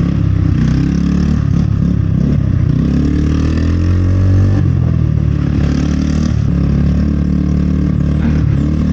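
A vehicle being ridden along, its motor running steadily with road and wind noise, swelling briefly about four seconds in.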